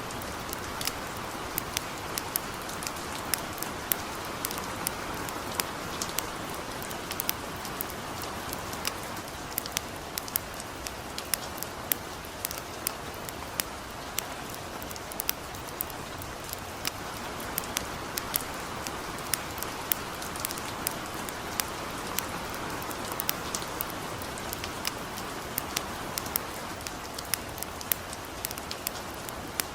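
Steady light rain falling, with a campfire crackling: many sharp, irregular pops scattered over the hiss of the rain.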